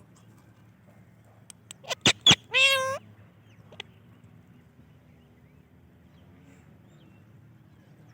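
Indian ringneck parrot calling: two sharp short squawks about two seconds in, then one half-second call with a wavering, rising pitch. The rest is quiet background.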